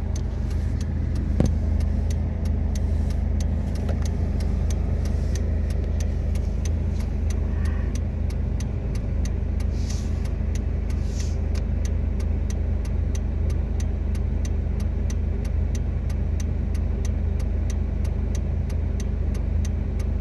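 2006 Suzuki Forenza's four-cylinder engine idling in Drive while the car stands still, heard from inside the cabin, with the turn-signal relay ticking steadily throughout.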